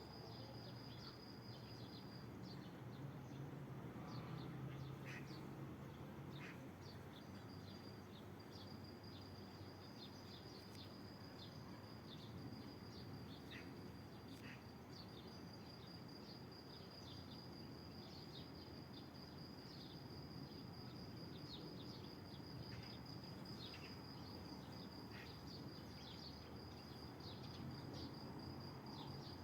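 A faint, steady, high-pitched insect trill, cricket-like, that drops out twice near the start. Short bird chirps come here and there over a low outdoor hum.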